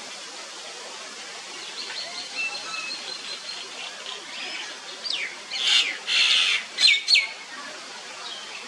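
Birds calling over steady outdoor hiss: a faint high held note, then about five seconds in a cluster of loud, sharp, falling chirps and harsh calls that stops a little after seven seconds.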